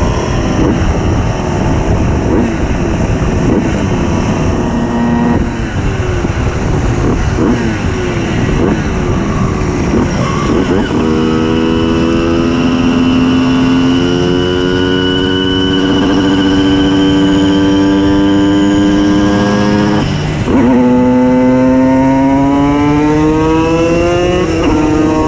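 Tuned 90 cc reed-valve two-stroke Simson moped engines. At first several machines run together unevenly. Then one engine is held at high revs with a steady, slowly rising note. About twenty seconds in it dips briefly at a gear change and revs up again.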